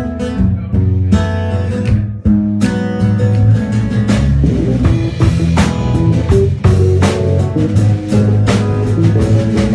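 Live rock band playing the instrumental intro of a song. Guitar chords ring out alone at first, then drums and bass come in about two and a half seconds in and the full band plays on.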